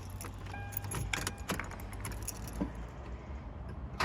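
A bunch of keys jangling and clicking as the ignition key is found and turned, with a short tone about half a second in that lasts under a second.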